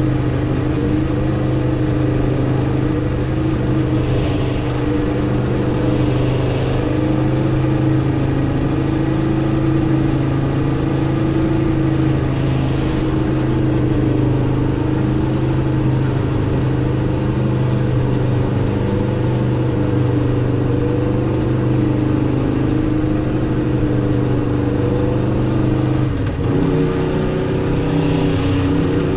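2016 Aprilia RSV4 RR's V4 engine through its stock exhaust, running at a steady pitch while riding, then briefly dipping and settling at a higher pitch near the end.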